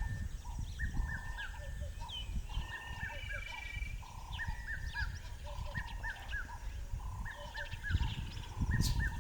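Several birds calling over one another, short arched notes repeated in runs of two or three, with higher chirps, over a low rumbling noise.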